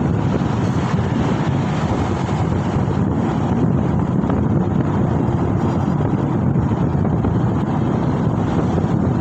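Steady wind rush buffeting the microphone along with road noise while riding on the move.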